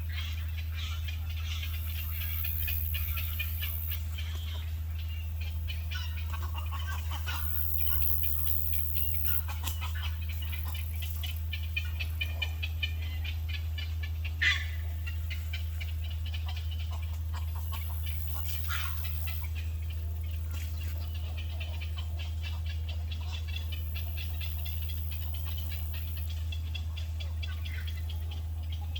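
A flock of birds chirping and chattering without pause, with one louder call about halfway through, over a steady low hum.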